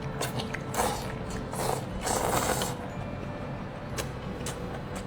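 Eating sounds: chewing and slurping of cold noodles and grilled sausage, a few short wet noisy bursts with small clicks of teeth or utensils.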